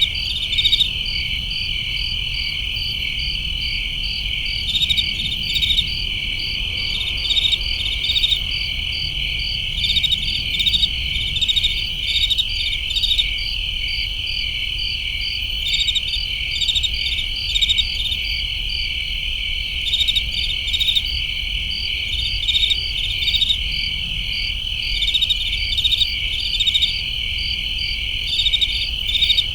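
Crickets chirping: a steady, high, unbroken trill with pulsing chirps over it, and louder chirp groups that come back about every two to three seconds.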